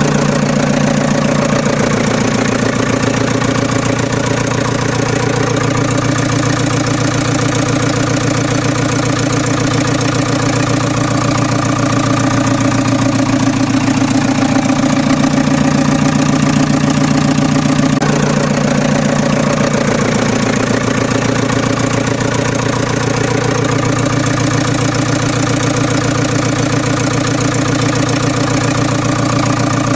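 Tractor engine idling steadily with a fast, even chugging. The tone shifts about 18 seconds in.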